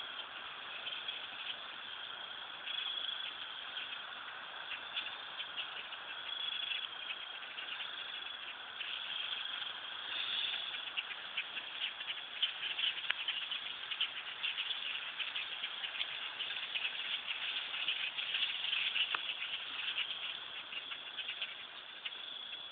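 A large flock of birds calling all at once: a dense, continuous chatter of many short calls that grows louder about halfway through.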